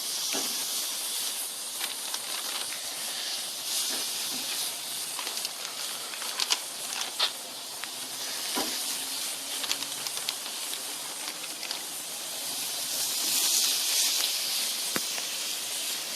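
Marinated chicken wings sizzling on a very hot grill grate as they are laid on: a steady high hissing, with a few sharp clicks. The hiss swells near the end.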